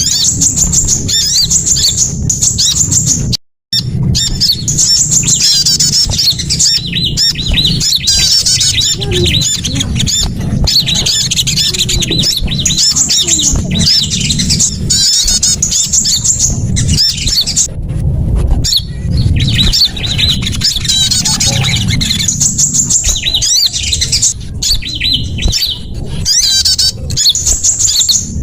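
Bird-lure recording of small songbirds calling without pause, a dense chatter of rapid high chirps, trills and squawks over a low hum. It breaks off for a split second about three and a half seconds in.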